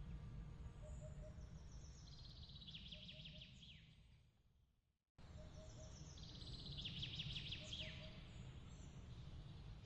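Looped nature ambience: a low steady rumble under bird chirps and fast falling trills, with soft triple pips about every two seconds. It fades away about four seconds in, drops to silence, and cuts back in abruptly a moment later, where the loop restarts.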